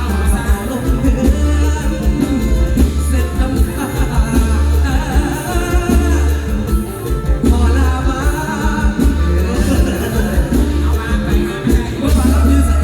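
Live mor lam band music played loud through a PA, with a heavy, pulsing bass beat and a singer's voice over it.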